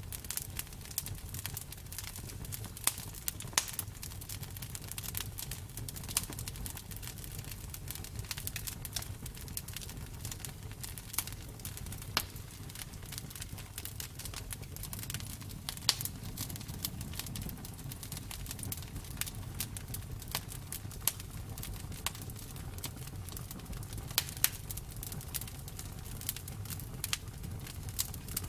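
Wood fire burning: a steady low rumble of the flames with irregular crackles and occasional louder pops.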